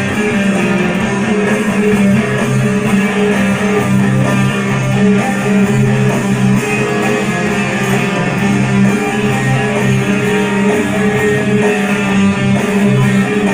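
Guitar playing a hard rock riff song, loud and continuous, with sustained low chords.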